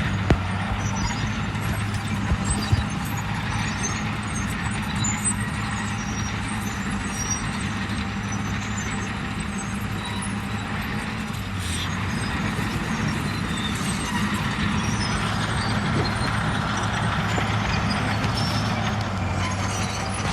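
Heavy diesel engine of earth-moving machinery running steadily with a low, even hum, with a few brief knocks in the first few seconds.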